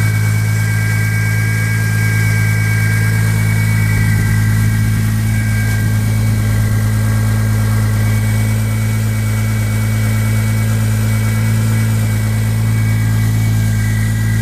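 Toyota 2JZ-GTE inline-six with a single-turbo conversion idling steadily while still warming up from a cold start, running smoothly. A thin, steady high whistle runs over the idle; the owner puts this down to the throttle body and says it is nothing to worry about.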